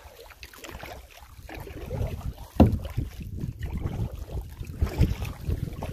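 A canoe being paddled, with wind rumbling on the microphone and one sharp knock about two and a half seconds in.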